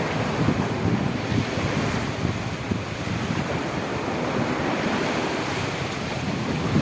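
Sea surf washing in steadily, with wind buffeting the microphone in uneven low gusts.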